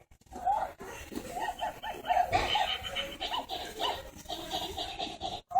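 A small child laughing in a long run of short, repeated giggles.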